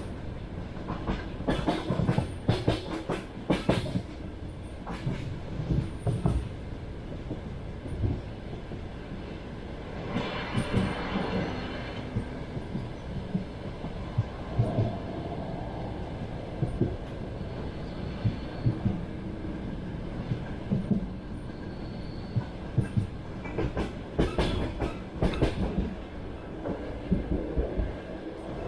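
Passenger train running on the rails, its wheels clacking over the rail joints in clusters of knocks over a steady rumble. There is a brief louder, higher-pitched stretch about ten seconds in.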